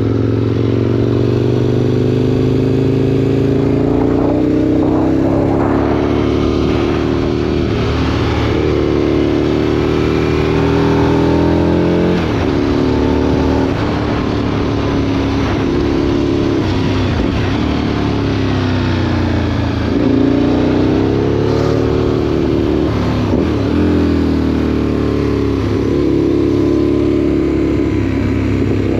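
A 2003 Aprilia Tuono 1000's V-twin engine through a Remus exhaust, running under way. Its pitch climbs steadily with speed and drops sharply at gear changes, several times.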